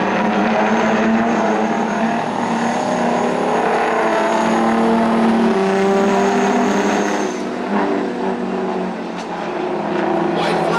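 Diesel engines of racing semi trucks running hard around a dirt oval, several at once. The sound eases a little about eight seconds in, then builds again.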